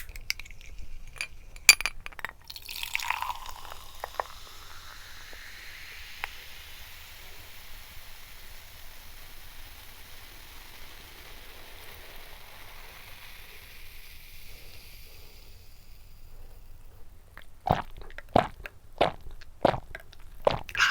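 Carbonated soft drink poured into a glass: a few clicks, then a long pour whose pitch climbs steadily as the glass fills, with fizzing. Near the end comes a quick series of clinks and taps.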